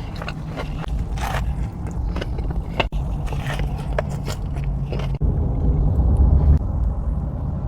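Close-miked eating: crunchy bites and chewing crackle in short strokes over a steady low rumble, which grows louder about five seconds in.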